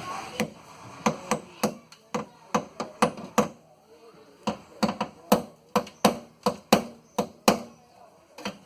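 A quick series of sharp knocks, about two to three a second with a short pause about halfway, from striking at the bumper's fastenings to free them.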